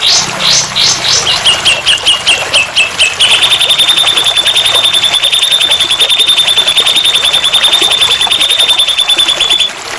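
Recorded songbird song played as a training 'master' track: a few high, down-slurred whistled notes, then a string of short clipped notes, then from about three seconds in a fast, even, high-pitched trill that runs for about six seconds and stops just before the end.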